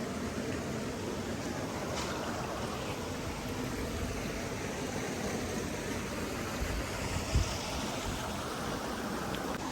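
Steady rushing of flowing water, as of a stream, with a brief low thump about seven seconds in.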